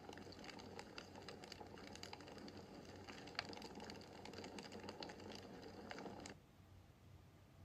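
Wood fire in a fireplace crackling faintly, with irregular sharp pops and snaps over a soft hiss. The crackling cuts off abruptly about six seconds in, leaving only a faint hiss.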